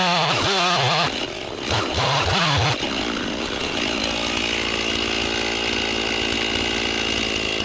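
Two-stroke chainsaw revving up and down a few times, then held at full throttle and running steadily from about three seconds in as it cross-cuts a felled log.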